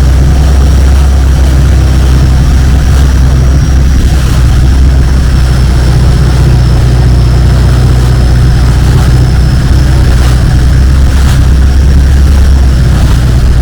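Longtail boat engine running steadily under way: a loud, even, deep drone that holds at one pitch.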